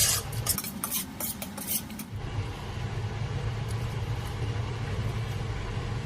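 Cooking utensils clinking against dishware several times in the first two seconds, then stirring over a steady low hum.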